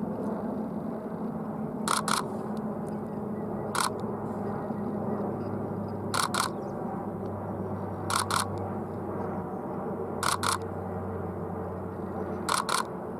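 A DSLR camera shutter fires six times, about every two seconds, mostly as quick pairs of frames. A steady low engine drone runs underneath.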